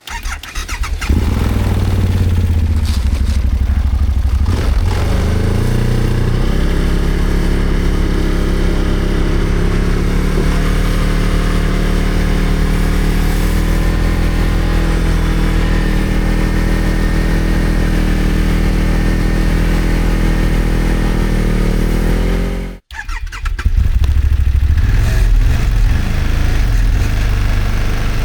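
Snowmobile engine running under throttle while pushing through deep snow, its pitch climbing a few seconds in and then holding steady. Near the end the sound breaks off for an instant and resumes.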